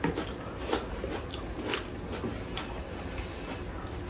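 Eating sounds from people working through a whole roast chicken: chewing, with scattered small clicks and wet smacks as the meat is bitten and pulled apart.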